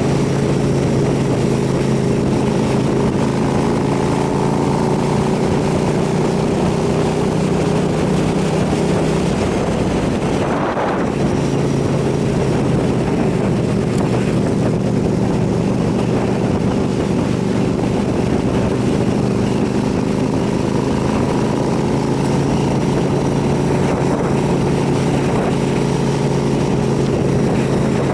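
KTM 990 SMR supermoto's V-twin engine running steadily under way. About ten seconds in the note breaks briefly and settles at a lower steady pitch.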